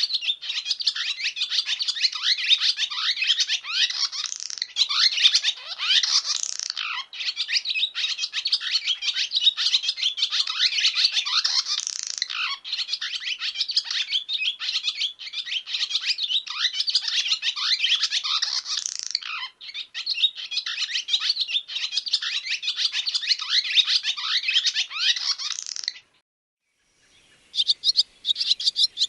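Barn swallow twittering song: a dense, unbroken stream of rapid chirps and warbling notes. It stops abruptly near the end, then picks up again a second or so later.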